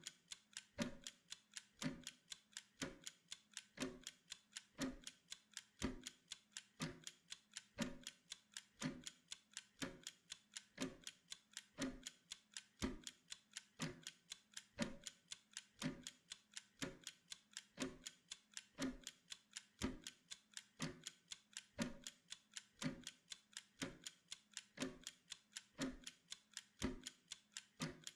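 Steady, even clock ticking of a pomodoro timer's tick track, with strokes alternating stronger and weaker in a tick-tock pattern.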